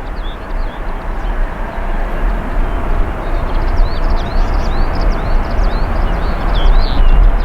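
Jet airliner engine rumble, growing gradually louder as the aircraft comes closer, with short high chirps over it.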